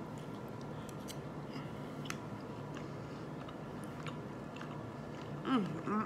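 A person chewing a mouthful of steak, with scattered small wet mouth clicks and smacks. A short vocal sound comes near the end.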